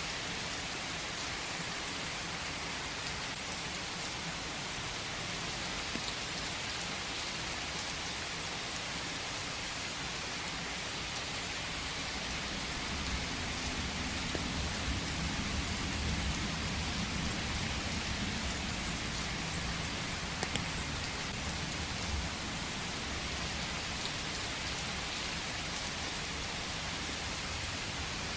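Steady rain falling in a forest, an even hiss of many drops. About halfway through a low rumble swells for several seconds and eases off again.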